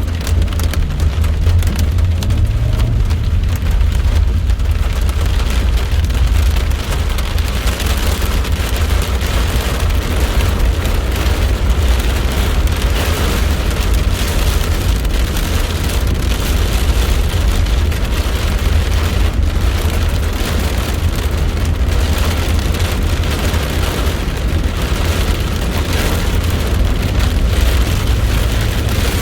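Heavy storm rain falling steadily, with many small pattering hits, over a constant deep low rumble.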